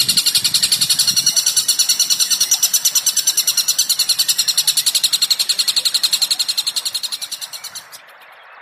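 Recorded songbird call: a fast, even train of high chirps, about ten a second, that fades from about seven seconds in and stops near the end.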